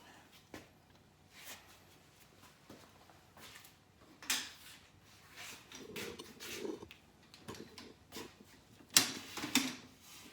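Irregular clanks, knocks and scrapes of hand tools and metal parts being handled while working on a car's axle bolts, with the sharpest knock about nine seconds in.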